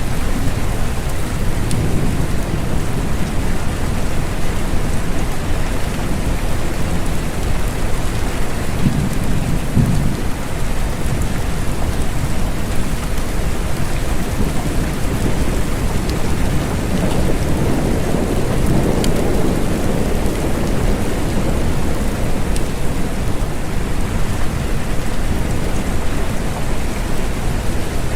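Steady rain falling, with low rolling thunder that swells twice, briefly about a third of the way in and more broadly about two-thirds in.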